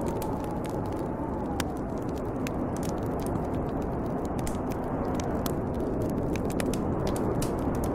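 Snowstorm wind blowing hard and steadily, with a bonfire crackling and popping throughout. A faint whistle in the wind slides down in pitch over the first two seconds.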